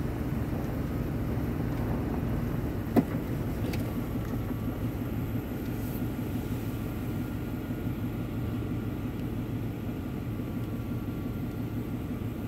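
Car driving along a road, a steady low engine and tyre rumble, with a single sharp click about three seconds in.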